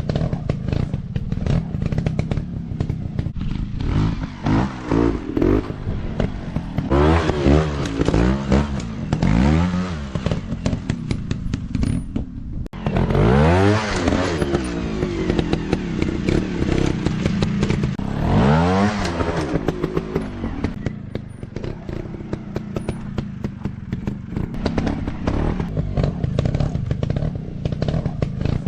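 Off-road dirt bike engine running, with the throttle opened hard in several surges so the pitch climbs and falls again, including a run of quick rev blips about a third of the way in.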